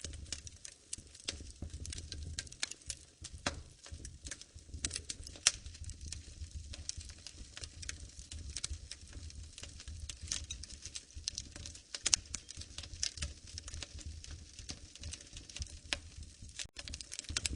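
Wood fire crackling in a fireplace: a dense, irregular run of sharp pops and snaps over a low, steady rumble.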